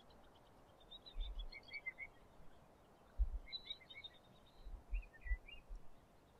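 Small birds chirping in short twittering phrases, three bouts in a row, over a faint steady outdoor hiss. Several low muffled bumps come through between the phrases, the loudest about three seconds in.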